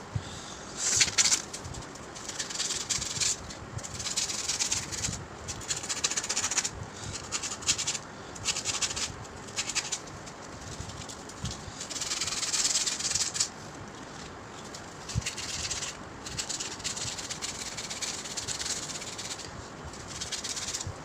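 Irregular scratchy rubbing strokes, coming in bursts of up to about a second with short pauses between them.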